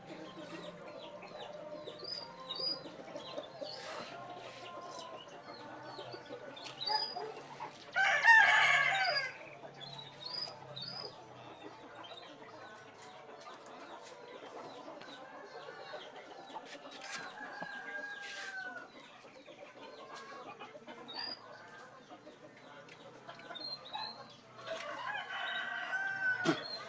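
A rooster crows loudly about eight seconds in and again near the end, over small birds chirping.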